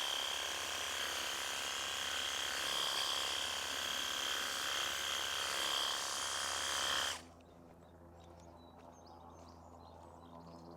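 Worx cordless battery pressure washer running and spraying: a steady high motor whine over the hiss of the water jet, which stops abruptly about seven seconds in.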